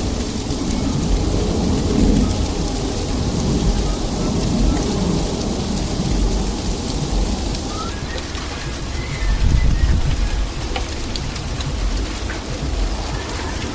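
Sleet falling steadily with an even hiss of pellets on surfaces, over a low rumble that swells about nine to ten seconds in.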